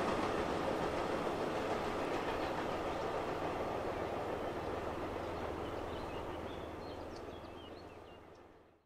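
Container freight train rolling away on the track, the rumble of its wagons steadily fading, then dying out completely in the last second.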